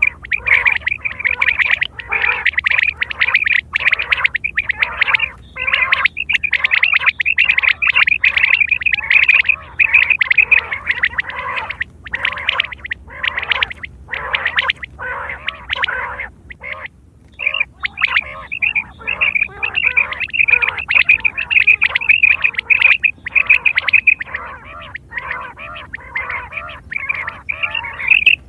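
Quail calling: short, rapidly repeated notes pouring out almost without pause, with a brief lull a little past the middle.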